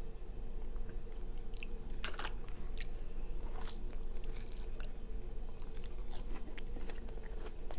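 Close-miked chewing of food, with a few sharp, crisp crunches scattered through it, over a steady low hum.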